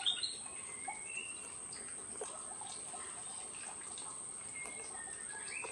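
Wild birds calling: a quick run of rising chirps at the very start, then scattered short whistled notes. A steady high-pitched tone runs underneath.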